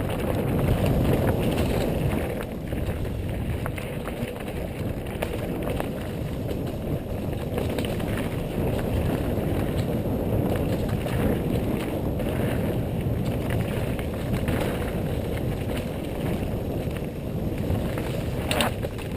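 Mountain bike riding down a dirt trail: a steady rumble of tyres on rough ground and rattling of the bike, with wind buffeting the microphone.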